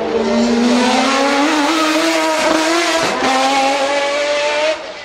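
Race car engine at full throttle, its note rising in pitch, breaking briefly twice around the middle, then fading near the end.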